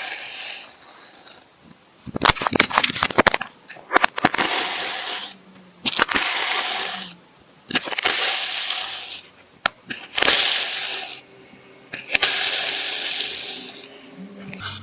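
Kinetic sand crunching as it is crushed, in about six bursts of a second or so each, with sharp crackles in them.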